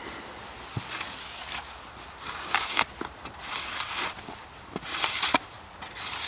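Irregular rustling and rubbing noises in short bursts, with a few light knocks.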